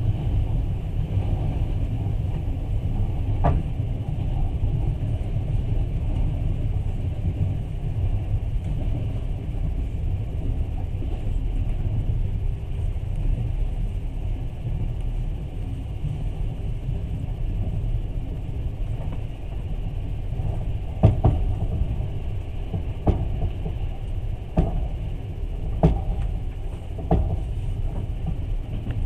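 Steady low rumble of a moving passenger train carriage heard from inside, with one sharp knock a few seconds in and several more knocks in the second half.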